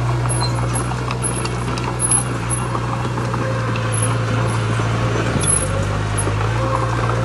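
Heavy construction machine's diesel engine running steadily under work. Its low hum dips in pitch about five and a half seconds in, then comes back up.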